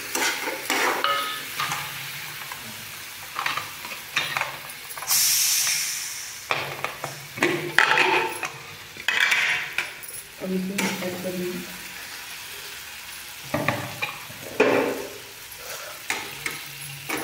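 Spatula scraping and stirring a frying onion-tomato masala in a kadai, with steady sizzling broken by repeated strokes and clicks against the pan and a few louder bursts of sizzle. The masala is fried to the point where the ghee separates.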